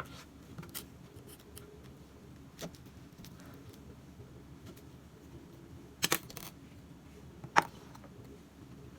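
Kitchen work sounds: scattered sharp clinks and taps of utensils and dishes being handled, with a double clatter about six seconds in and the loudest clink about a second and a half later.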